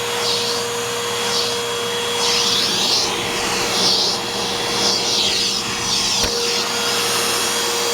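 Eureka Boss Smartvac 4870 upright vacuum cleaner running, its motor giving a steady whine under a hiss that swells and fades about once a second.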